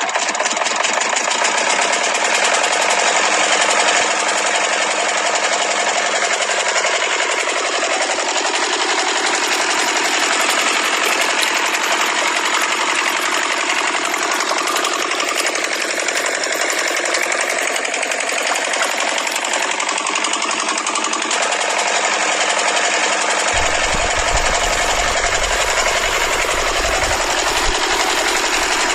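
Miniature diesel engine running steadily at high speed, a fast even knocking rhythm. A low rumble joins in near the end.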